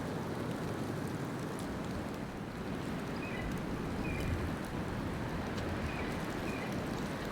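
Steady blizzard wind blowing across the microphone, with a few faint short bird chirps from about three seconds in.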